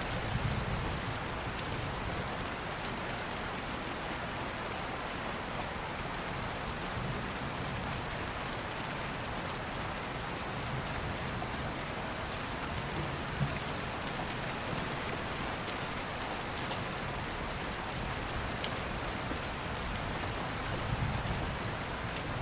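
Steady rain with the low rumble of distant thunder rising now and then, and a few sharp crackles and pops from an open wood fire.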